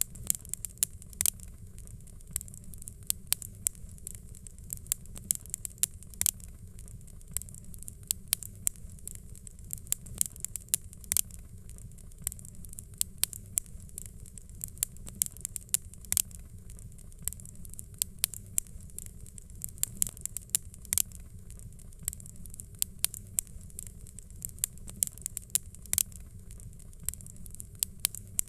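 Fireplace fire crackling: irregular sharp pops and snaps, often several a second, over a steady low rumble and a faint hiss.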